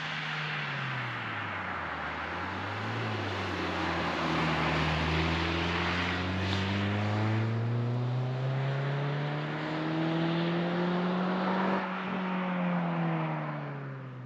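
Renault Twingo RS Gordini's 1.6-litre four-cylinder engine through an Inoxcar 80mm stainless-steel aftermarket exhaust, pulling under load. Its pitch dips briefly, then climbs slowly for about ten seconds and drops away near the end as the throttle eases.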